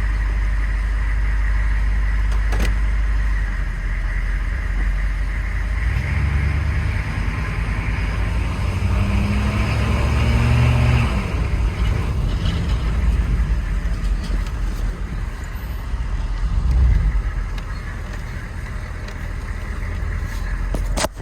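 1999 GMC 3500's 6.5-litre Detroit Diesel turbo diesel V8 running. Its pitch rises steadily for about five seconds, then falls back, with a smaller swell later on.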